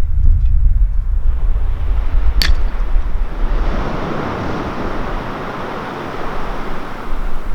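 Wind buffeting the microphone with ocean surf; a wave's rushing wash swells about three seconds in and eases off near the end. A single sharp click about two and a half seconds in.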